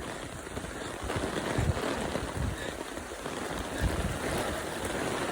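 Steady hiss of heavy typhoon rain, with gusts of wind buffeting the microphone in low thumps every second or so.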